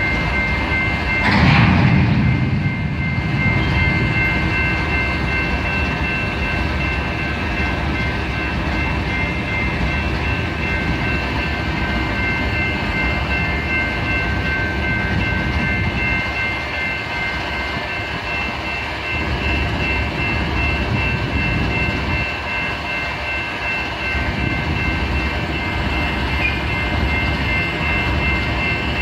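Freight train running with its cars rolling, a steady noise with several high steady tones held throughout and a brief loud burst about a second and a half in.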